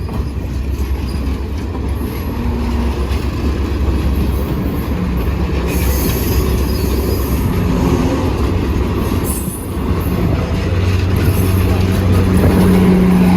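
Passenger train rolling on the rails: a steady heavy rumble, with stretches of high wheel squeal a few times and a low steady tone that grows louder near the end.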